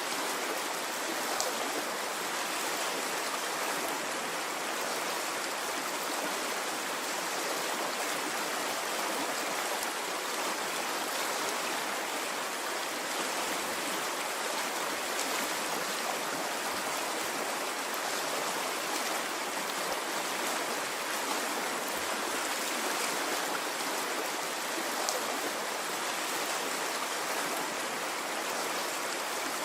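A stream of water flowing in a steady, even rush, with no rise and fall of breaking waves.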